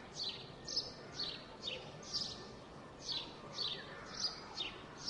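A songbird giving a run of short, high chirps that each fall in pitch, about two a second, over a steady low hum of background noise.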